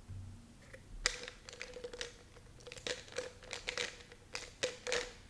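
Plastic bottle of fish oil capsules being opened and handled at close range: a quick run of sharp clicks and crinkles.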